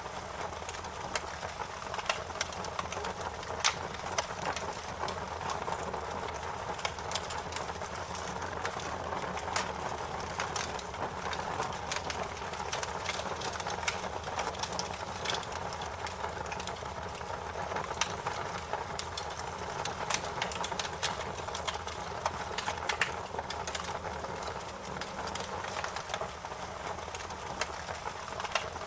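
Wood fire crackling: frequent sharp, irregular pops and snaps over a steady soft hiss.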